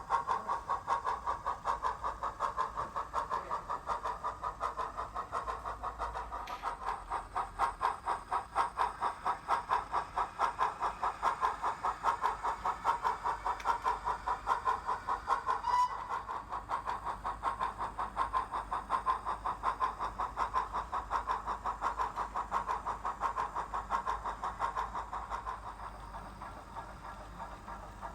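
Digital sound decoder in a model steam locomotive playing a Drummond 700 Class steam exhaust through a small speaker: a rhythmic chuff, about four beats a second, getting softer near the end.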